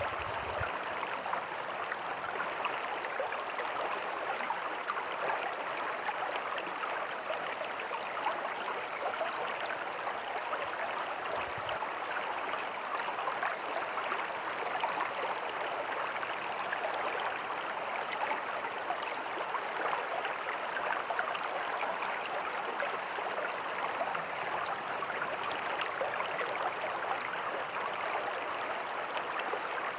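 Small creek flowing steadily over rocks, with a tiny waterfall splashing: a continuous, even rush of water.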